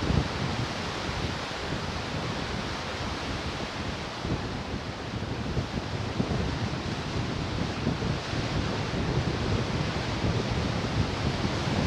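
Ocean surf washing in a steady rush, with wind buffeting the microphone in low, uneven rumbles.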